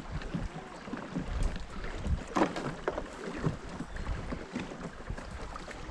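Wind on the microphone and water noise around a small fishing boat, with scattered light knocks and one louder brief sound about halfway through.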